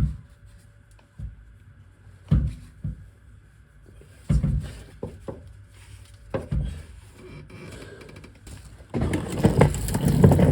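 Clunks and scrapes of a car's exhaust being handled into place, with single knocks a second or so apart and a busier stretch of scraping and clattering near the end.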